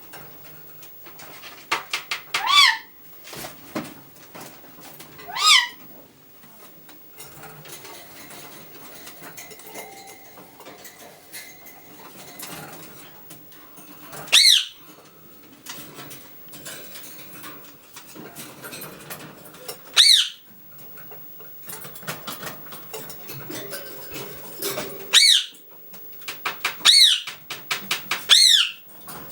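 Ring-necked parakeets giving short, sharp screeching calls, about seven spread through the span, the last three coming close together. Light clicking and tapping runs in between.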